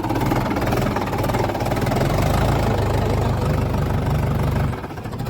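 A diesel engine on a tractor or backhoe loader, running steadily close by with a rapid, even firing beat. It drops off in loudness near the end.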